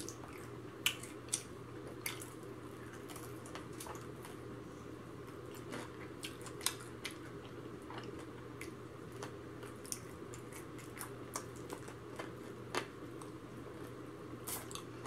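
Fried chicken being eaten with the hands: close, wet chewing and smacking with small irregular clicks as meat is bitten and picked off the bone, over a steady low room hum.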